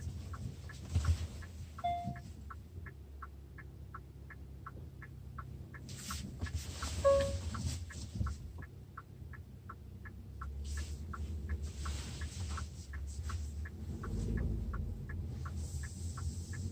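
Hyundai Tucson NX4's turn-signal indicator ticking steadily inside the cabin, an even tick-tock of about three ticks a second, over the low rumble of the idling car.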